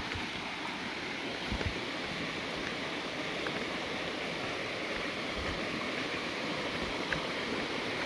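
Steady rush of running water, with a few soft low bumps about a second and a half in and again past the middle.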